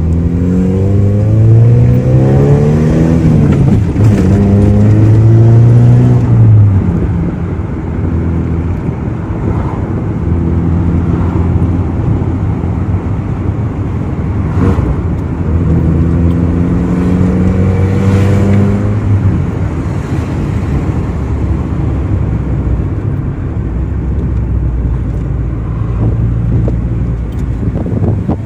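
Toyota Starlet EP81 engine heard from inside the cabin while driving, pulling up through the gears of its manual gearbox. The pitch climbs, drops at a gear change about four seconds in, and climbs again. It then runs steadier and lower, with another climb about two-thirds of the way through.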